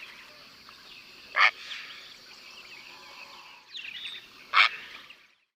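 Heron calling: two short, loud calls about three seconds apart, with other birds chirping faintly behind.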